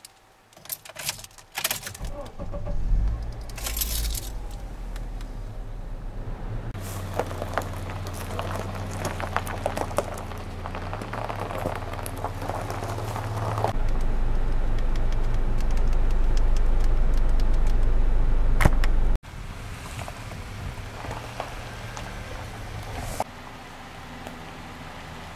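Keys jangling at a Honda CR-V's ignition, then the engine cranks and starts about two and a half seconds in and runs steadily, louder from about fourteen seconds, until it cuts off abruptly near nineteen seconds; a quieter steady hum follows.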